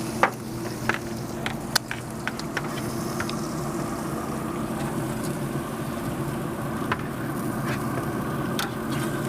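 Steady hum of a Pit Boss pellet grill running, with sharp metallic clicks of tongs on the grill grates as chicken halves are lifted off: a cluster in the first three seconds and a few more near the end.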